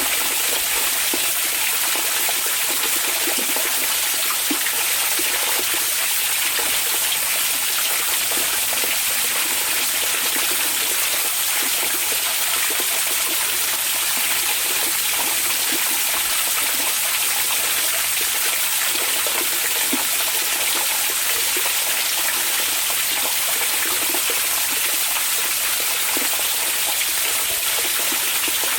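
Hot spring water flowing and pouring into a bath: a steady, even rush with small gurgles and splashes through it.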